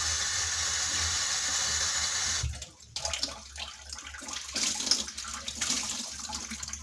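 Kitchen tap running onto a cloth, shut off about two and a half seconds in; then the wet cloth is wrung out, water splashing and dripping into the sink.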